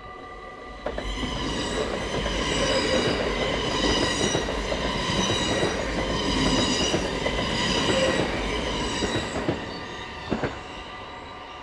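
A double-deck electric passenger train passing over a level crossing: the rumble and rattle of its wheels on the rails starts about a second in, swells, and fades out near the end, followed by two short sharp knocks. The crossing's warning bell rings steadily throughout.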